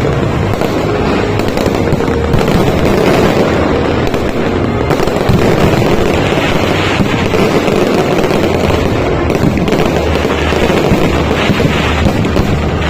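A dense, continuous barrage of aerial fireworks bangs and crackles from a lakeside fireworks show, mixed with background music.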